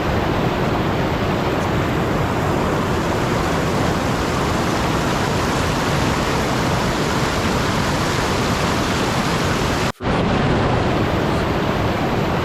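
Steady, even rushing noise like rain or static hiss, with no rhythm or tone. It cuts out for a split second about ten seconds in, then carries on.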